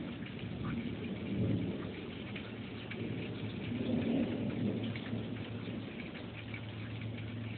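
Steady rain in a thunderstorm, with many small drop ticks, and low thunder rumbling that swells about one and a half seconds in and again about four seconds in.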